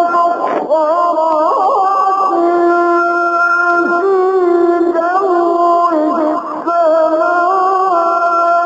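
A male reciter chanting the Quran in a melodic style, holding long high notes and breaking into ornamented, wavering turns about a second in and again around five to seven seconds in.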